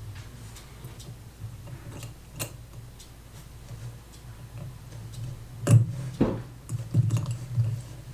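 Small clicks and taps of watchmaker's tools and watch parts handled during disassembly of a Seiko diver's watch, over a low steady hum. Two louder clicks come a little after the middle, followed by a quick run of taps.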